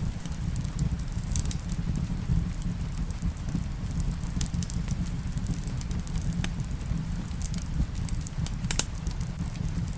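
Wood fire crackling in a fireplace: irregular sharp pops and snaps, a few strongest near the end, over a steady low rumble of the burning fire, with rain falling in the background.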